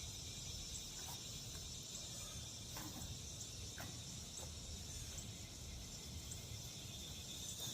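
Steady chorus of crickets and other insects, with a faint low rumble beneath and a few faint taps.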